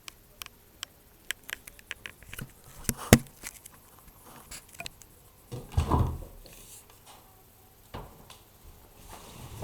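Clicks and knocks of a washing machine being handled, with a sharp knock about three seconds in and a heavier thump near six seconds.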